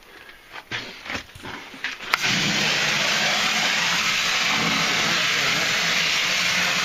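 A pressure washer's jet starts with a sharp click about two seconds in, then sprays steadily, a loud hiss over a low motor hum. Before it, a few light knocks.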